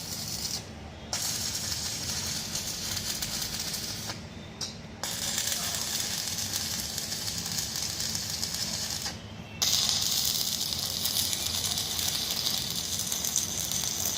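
Electric arc welding crackling and sizzling in long runs. It breaks off briefly about half a second in, about four seconds in and about nine seconds in, and the last run is louder.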